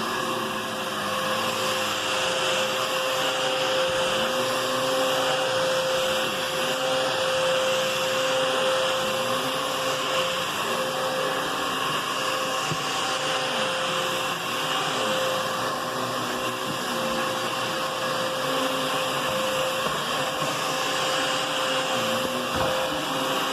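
Hoover cyclonic upright vacuum cleaner running steadily, its motor giving a constant whine over the rush of air.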